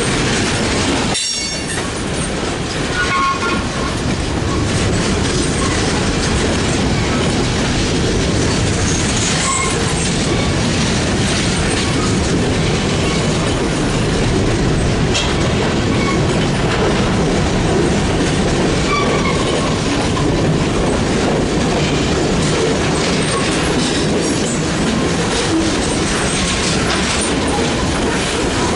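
Freight cars of a mixed freight train rolling past at close range, a steady loud rumble of wheels on rail with clicking over the joints and a few brief wheel squeals.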